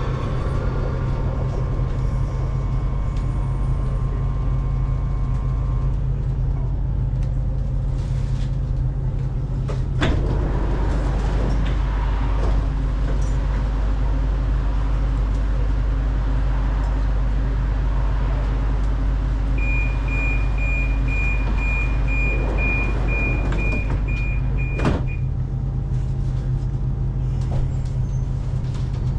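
Inside a metro train car stopped at a station: a steady low rumble, a sharp knock about a third of the way in as the sliding doors open, then a fast pulsing door-closing warning beep for about five seconds, ending in a knock as the doors shut.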